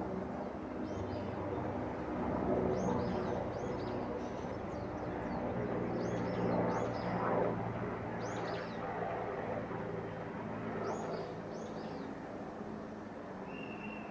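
Strong gusty wind rustling bamboo and tree branches, swelling in gusts about two seconds in and again around seven seconds. Small birds chirp again and again over it.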